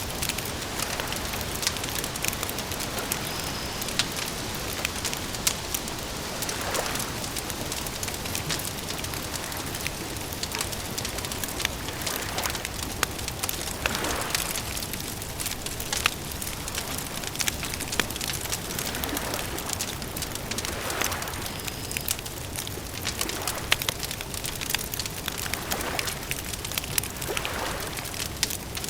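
Wood campfire crackling: a dense run of sharp pops and snaps over a steady hiss, with a soft swell every seven seconds or so.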